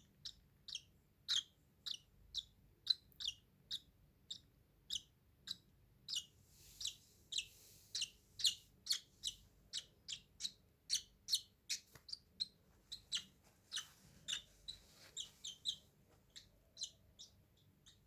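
Baby bird chirping in a long run of short, sharp peeps, about two to three a second and quickening in the middle: begging calls of a nestling being hand-fed.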